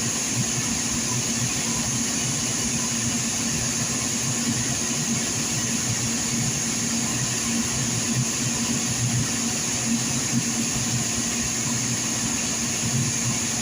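A pump's motor running steadily, a constant hum with a high hiss that does not change.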